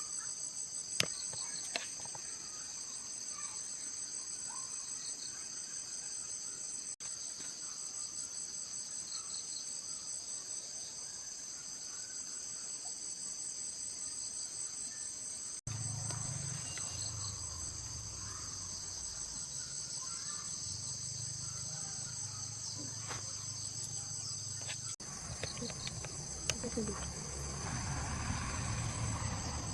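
Insects chirring steadily in a high, continuous drone. About halfway through, a low hum joins in underneath.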